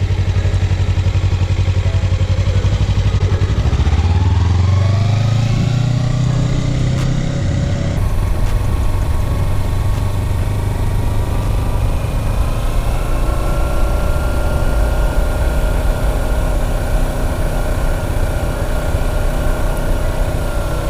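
2014 Kawasaki Ninja 300's parallel-twin engine running as the motorcycle pulls away; the engine speed rises about four to six seconds in, then it runs steadily.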